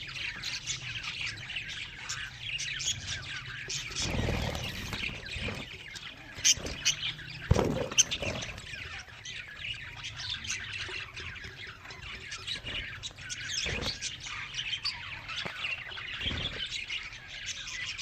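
A colony of budgerigars chirping and chattering continuously, with a few dull knocks.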